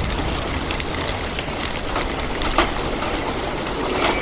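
Heavy rain falling, with many separate drops tapping sharply on a hard surface over a steady hiss and a low rumble underneath.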